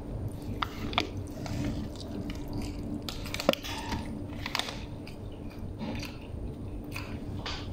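A person chewing and biting into bread close to the microphone, with scattered short wet mouth clicks and smacks.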